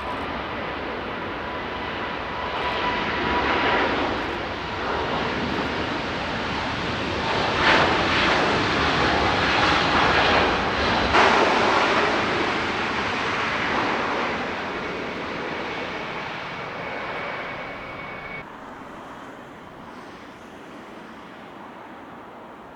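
Jet airliner's engines passing: a rushing jet noise with a thin steady whine that swells to its loudest around the middle, then fades and drops away sharply near the end.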